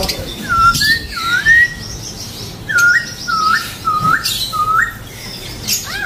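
Caged birds calling: one gives a series of clear, hooked whistled notes, two near the start and four more from about three seconds in, with fainter high chirps from other birds underneath.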